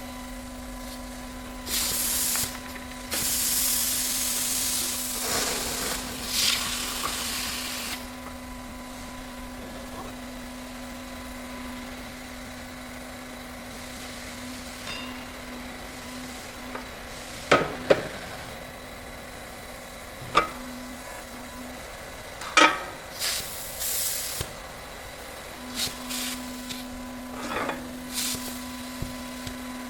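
Workshop noise: a steady machine hum, long loud bursts of hissing in the first several seconds, then a series of sharp knocks, three of them louder than the rest.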